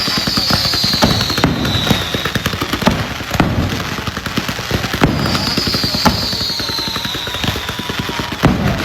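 Red Apple Fireworks 'Doom' 474-shot consumer fireworks cake firing its finale: rapid, dense bangs and crackle, with two long whistles falling slowly in pitch, one in the first couple of seconds and one from about five seconds in.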